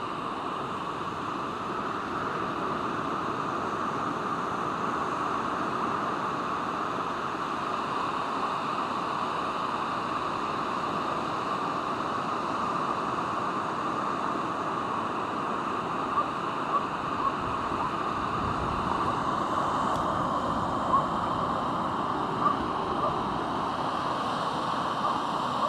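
Pacific Ocean surf on a sandy beach: a continuous hiss of breaking and washing waves that slowly swells. A few brief sharp sounds stand out in the second half.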